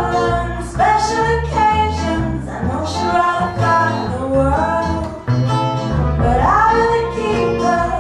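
A band playing live: a singer holding long sung notes over guitar accompaniment.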